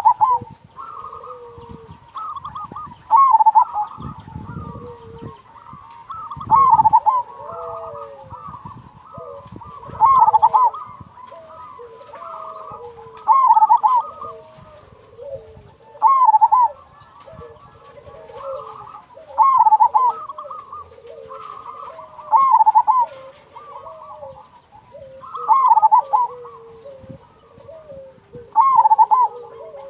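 Zebra doves cooing: a loud rippling coo phrase about every three seconds, with softer cooing from other doves in between.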